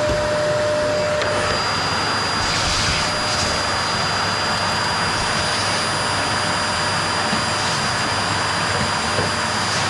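Qilive vacuum cleaner running steadily on a wooden floor: an even rushing of air with a high, steady whine. About a second and a half in, a lower hum stops and the high whine strengthens.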